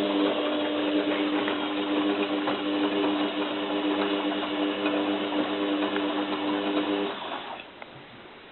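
Zanussi FLA1002W washing machine running in its first rinse: a steady motor hum with a whirr over it, which stops abruptly about seven seconds in.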